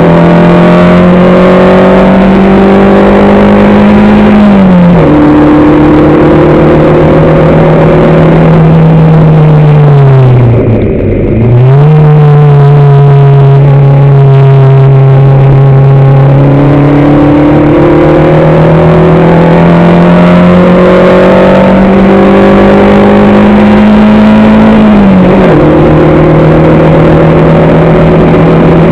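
Racing vehicle's engine heard onboard under hard running, its note climbing slowly and dropping sharply at gear changes about five seconds in and near the end. Around the middle the note falls away as it slows, dips briefly, then picks up again as it accelerates.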